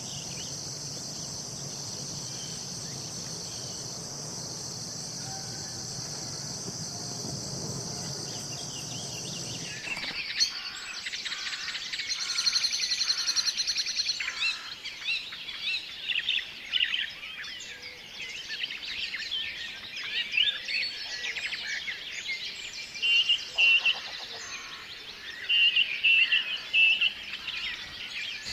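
Outdoor nature ambience. For about the first ten seconds a steady high insect drone runs over a low hum. Then birds take over with many quick chirps and trills.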